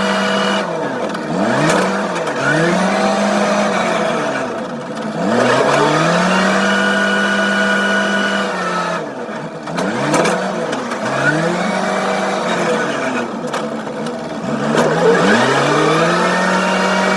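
Engine of a wheel loader or mini tractor working a corn pile, revving. Its pitch falls and climbs back up about four times as the machine slows and speeds up.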